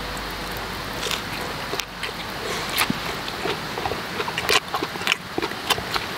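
Close-up chewing of a mouthful of chewy beef from a tendon-and-shank hotpot: wet, irregular mouth clicks and smacks. A steady hiss from the portable gas stove and simmering pot runs underneath.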